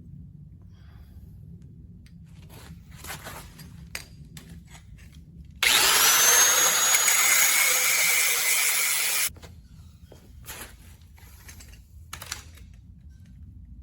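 A loud, steady hissing noise, switched on abruptly and cut off just as abruptly after about four seconds, with light clicks and handling knocks before and after it.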